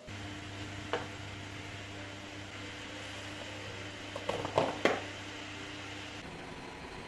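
A small appliance motor hums steadily, with a click about a second in and a short clatter of knocks near five seconds.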